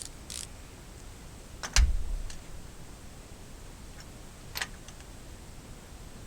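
A few short clicks and knocks over a low steady background, the loudest a single sharp knock with a low thud about two seconds in.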